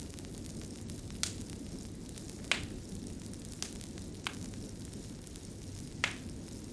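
Wood fire burning with a steady low rush and sharp pops and crackles, about five in a few seconds.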